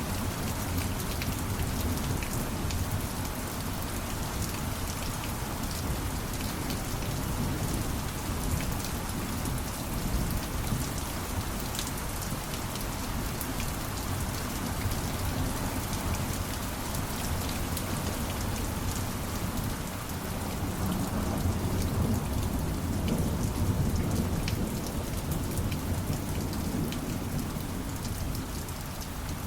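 Steady rain falling on a surface, a constant patter of drops with a low rumble underneath that swells a little in the second half.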